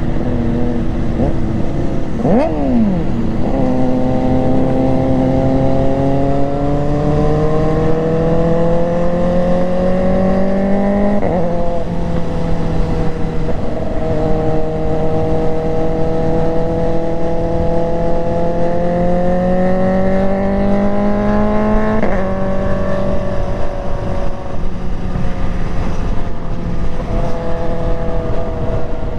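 Motorcycle engine under way, its pitch climbing slowly for several seconds and then dropping sharply at a gear change, twice, with steady wind and road noise underneath.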